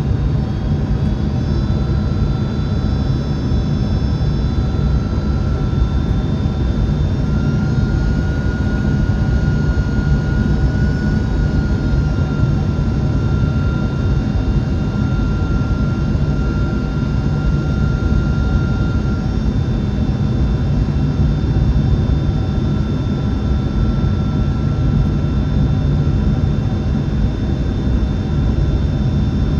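Steady cabin noise inside a Boeing 767-400 on approach: airflow and jet engine rumble, with a thin engine whine above it that rises slightly in pitch about eight seconds in and fades a few seconds before the end.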